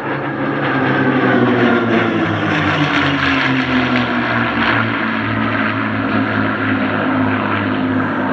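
Piston-engined propeller aircraft flying past, its engine note dropping in pitch as it goes by and then holding steady.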